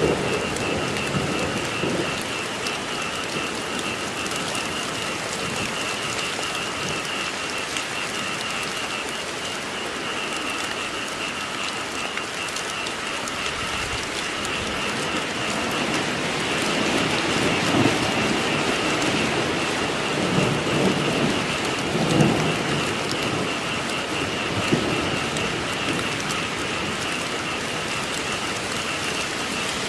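Steady rain falling, with a constant high chorus of calling frogs behind it. Low rumbles of thunder swell a little past the middle.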